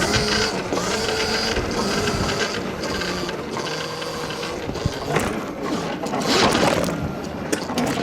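Stomp Haywire electric dirt bike being ridden: the electric motor whines and the drivetrain rattles mechanically. There is a sharp knock about five seconds in, and rougher bursts of noise follow.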